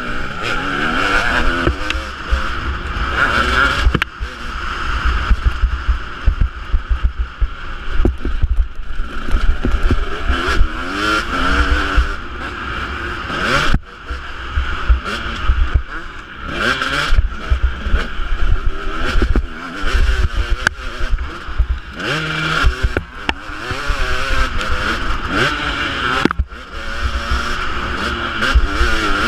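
Husqvarna 250 two-stroke motocross bike being ridden hard, its engine revving up and falling back over and over as the throttle opens and closes. The throttle snaps shut a few times, about 4, 14 and 26 seconds in.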